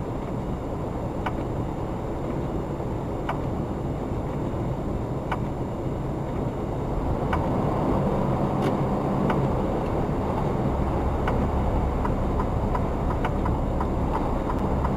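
Car interior road and engine noise picked up by a dashcam microphone: a steady rumble that grows somewhat louder about halfway through, with faint sharp ticks every second or two.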